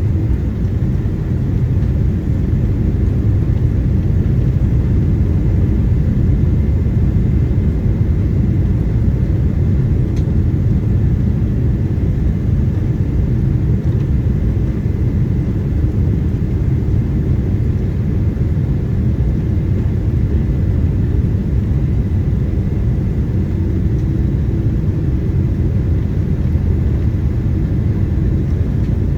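Steady low rumble of engine and airflow noise inside the cabin of a Boeing 777-200 airliner, with a faint steady whine above it.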